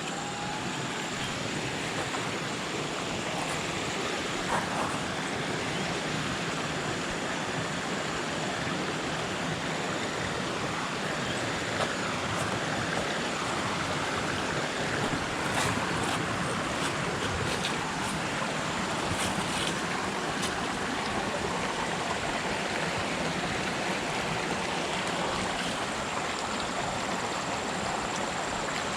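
Water of a rocky jungle river rushing steadily over rocks and small cascades, an even, full rushing sound.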